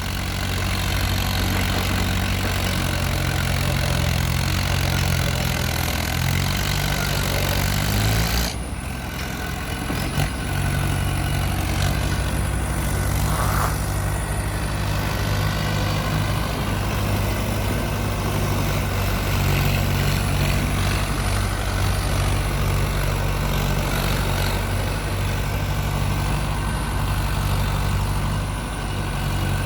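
Mahindra Arjun 555 DI tractor's diesel engine running steadily, with a short dip in the sound about eight and a half seconds in.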